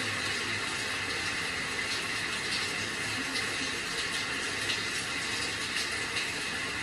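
Steady rain: an even hiss of falling water with scattered sharper drop ticks through it.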